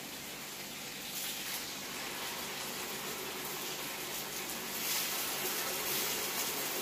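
Hot oil sizzling in a paniyaram pan as spoonfuls of batter are dropped into its wells: a steady hiss that grows a little louder about five seconds in, as more wells are filled.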